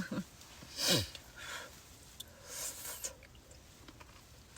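A short sigh falling in pitch about a second in, then soft breaths and small mouth and chewing sounds as a person eats.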